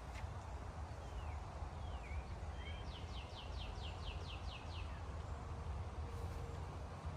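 Wind rumbling on the microphone, with a songbird calling: a few single chirps, then about three seconds in a rapid run of about nine downward-sweeping notes.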